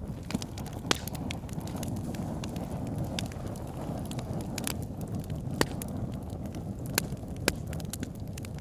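Wood fire burning in a fireplace: a steady low rumble of flames with irregular crackles and sharp pops from the burning logs, the loudest about a second in and several more in the second half.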